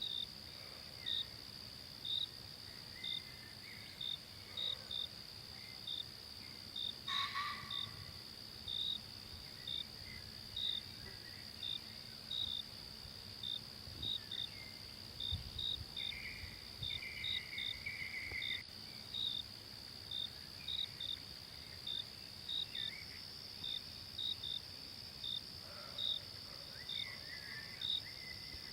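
Forest insects, crickets among them, trilling in a steady high buzz with short chirps repeating irregularly, about one or two a second. Faint bird calls come and go, the clearest a little past halfway.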